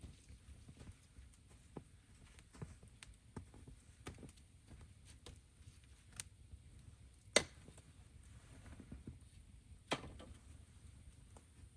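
Scattered light knocks and clicks over a low steady rumble, the two sharpest knocks coming about seven and ten seconds in.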